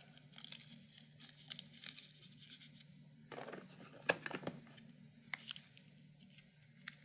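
A sticker being peeled and crinkled by hand: scattered small crackles and clicks, with a louder run of crackling about three and a half to four and a half seconds in.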